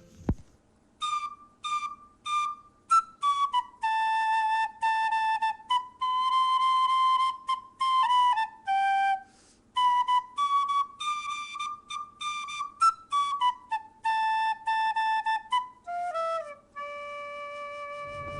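Intro music: a solo flute-like wind melody of short, separate notes, ending on a long, lower held note.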